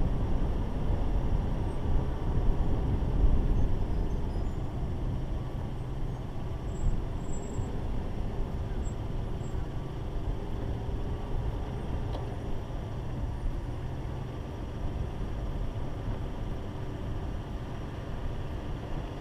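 Mitsubishi Pajero Evolution's V6 engine running as the 4x4 drives slowly over sand, a steady low rumble of engine and tyres. It is a little louder in the first few seconds, then even.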